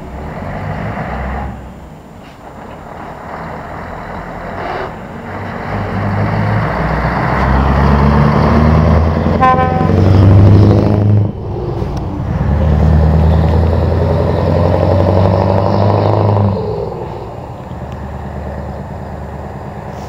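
Scania 143M 420 V8 truck engine pulling away hard under load, getting louder as it builds speed. A short horn toot comes partway through. The engine note breaks off briefly in a gear change, pulls again, then falls away near the end.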